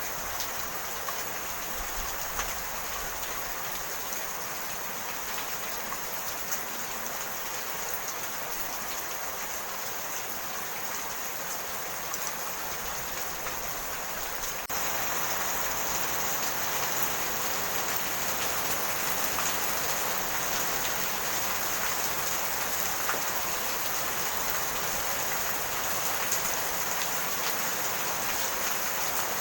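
Steady rain falling, with fine patter of drops, that becomes a little louder about halfway through.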